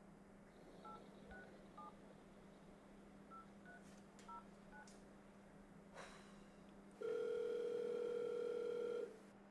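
A phone keypad dialing a number with seven short touch-tone beeps, three then four, followed by a steady ringing tone on the line for about two seconds as the call goes through.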